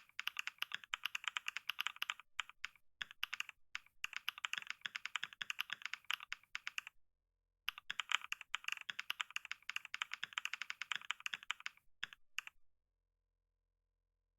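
Fast typing on a computer keyboard: a rapid run of key clicks with a few short pauses, stopping abruptly near the end.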